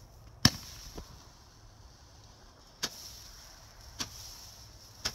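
Fireworks exploding: one sharp, loud bang about half a second in, a faint one just after, then three more bangs spaced about a second apart later on.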